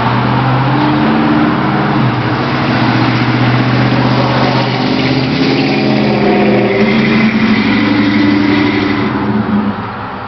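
1977 Chevrolet C10 pickup with a Flowmaster exhaust driving past, its engine note loud and steady with the pitch shifting a couple of times, then fading away near the end.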